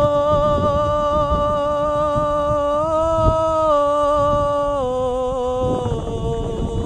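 A solo voice singing one long held note of a Telugu song, rising slightly about three seconds in and stepping down about five seconds in, over a low rumble of wind on the microphone.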